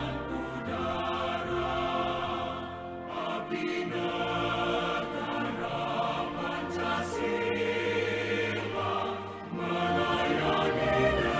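Choral music: a choir singing sustained lines over held bass notes.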